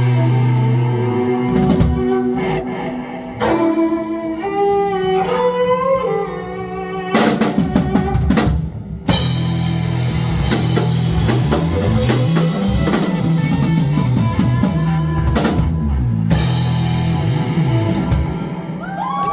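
Live rock band playing: drum kit, electric guitar and bass. A melody steps up in pitch in the first few seconds, then the drums come in hard over a moving bass line.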